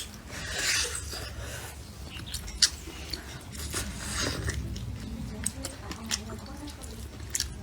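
Eating sounds: chewing and biting on stir-fried pork bones, with scattered sharp clicks.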